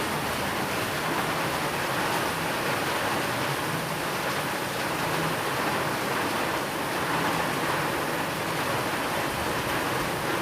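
Steady rain falling, an even unbroken hiss with no thunder, with a faint low steady tone from a mixed-in binaural beat track underneath.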